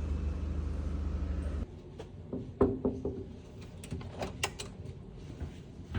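Steady low rumble of a bus running, cutting off abruptly about a second and a half in. Then a few sharp knocks and clicks in a quieter space.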